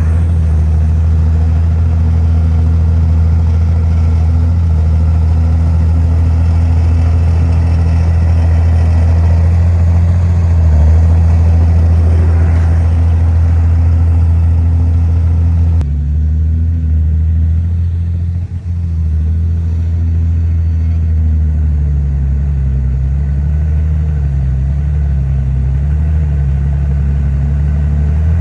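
Diesel engine of heavy earthmoving machinery running steadily with a deep drone. The sound shifts abruptly about halfway through, and after that the engine speed rises and falls slightly as the load changes.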